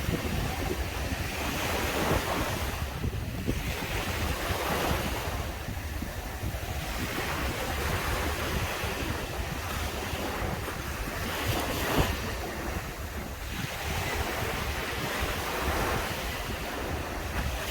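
Sea waves breaking and washing up on a beach, swelling and ebbing every few seconds, with wind buffeting the microphone as a steady low rumble underneath.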